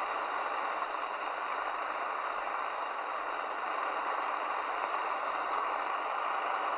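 Midland Alan 8001 CB radio giving steady static hiss on an empty channel between transmissions, with two faint ticks in the last two seconds.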